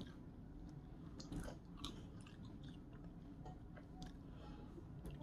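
Faint close-up chewing of a baked, seasoned curly fry, with a few soft crunches and wet mouth sounds.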